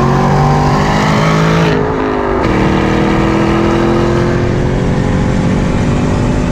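A car engine running with a slow rise in pitch, a brief dip about two seconds in, then a slow fall as it eases off.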